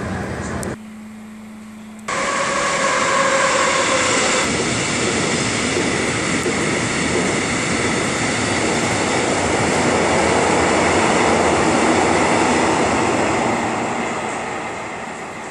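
BRB diesel regional train running, a loud steady roar with a faint whine that fades about four seconds in. Briefly, about a second in, it gives way to a quieter low hum.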